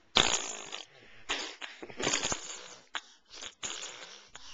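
A person making a series of short, breathy, sputtering mouth noises, about half a dozen in a row, the first one about a quarter second in the loudest.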